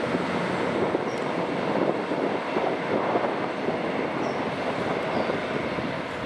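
Class 158 diesel multiple unit moving off, a steady diesel engine and wheel-on-rail rumble as it runs across the points and round the curve.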